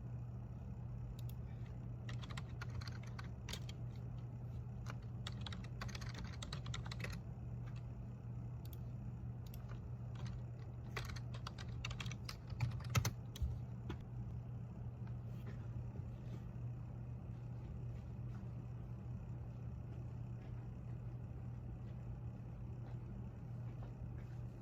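Typing on a computer keyboard in irregular bursts of key clicks, the busiest near the middle, over a steady low hum.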